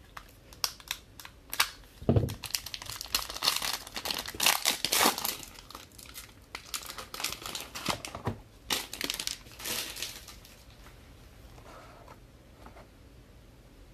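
Plastic wrapping on a sealed trading card box being torn open and crinkled, a dense run of crackling rustles that dies down about ten seconds in.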